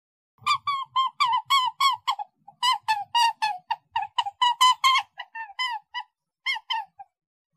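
A bird calling in a rapid series of short, clear, high-pitched notes, each dropping a little in pitch, about five a second. There is a brief break about two and a half seconds in, and the calls get quieter near the end.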